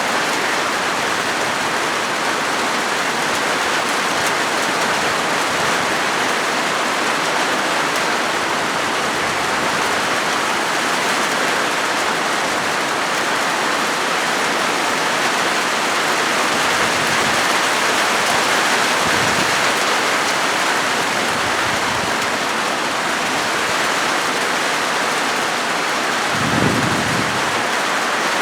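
Steady rain drumming on a corrugated zinc metal roof, a dense even patter. Near the end there is a brief low rumble.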